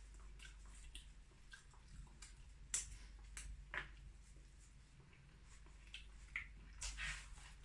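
Faint eating sounds: soft mouth clicks and squelches of chewing sticky rice with grilled pork belly, with a few sharper clicks about three, four and seven seconds in.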